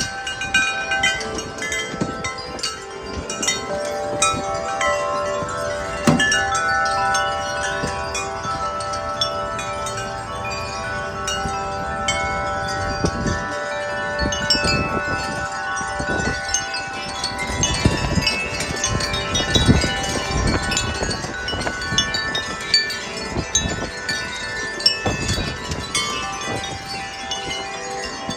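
Several wind chimes clanging and ringing continuously at many pitches in strong, gusty wind. Wind gusts rumble on the microphone, heaviest in the middle stretch.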